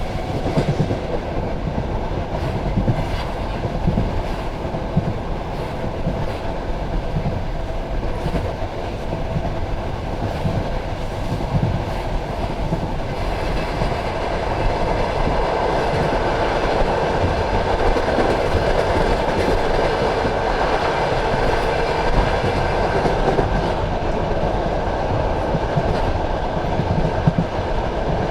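Passenger train carriage rolling along the track, heard at the carriage window: a steady rumble of wheels on rails with the clickety-clack of wheels over rail joints. It grows a little louder and higher about halfway through.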